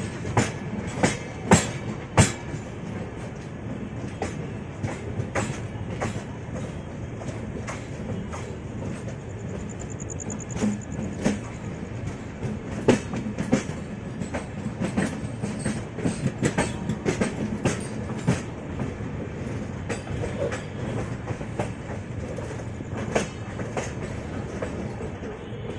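Moving train: an LHB passenger coach running with a steady low rumble, broken by sharp, irregular clacks of the wheels over rail joints, most frequent in the first couple of seconds.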